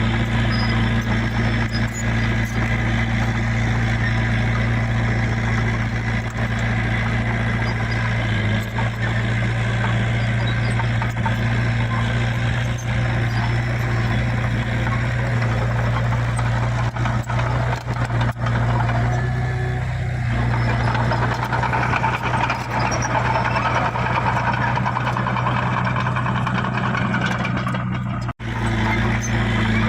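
Heavy diesel engine of earthmoving machinery running steadily at a constant pitch, with a brief break near the end.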